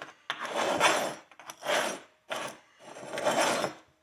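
A horseshoe being scrubbed clean in about four separate strokes, each lasting up to about a second with short pauses between.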